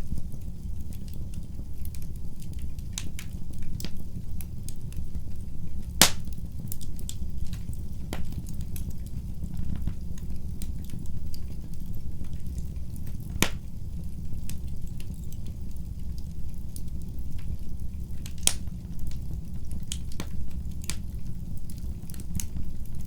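Wood fire burning in a fireplace: a steady low rumble of the flames with scattered crackles and pops, the sharpest pops about 6 s, 13.5 s and 18.5 s in.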